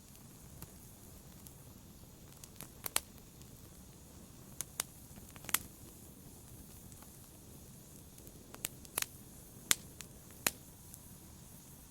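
Wood fire crackling in a fireplace: irregular sharp pops, a few loud ones around the middle and later on, over a low steady hiss of burning.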